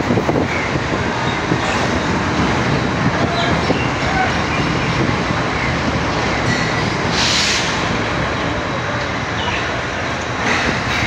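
Pakistan Railways passenger train rolling slowly into a station, heard from on board: a steady rumble of wheels on the rails, with a short burst of hiss about seven seconds in.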